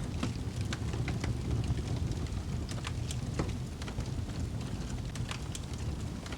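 Fireplace crackling: a steady low rumble of burning wood with scattered sharp pops and snaps, about two a second.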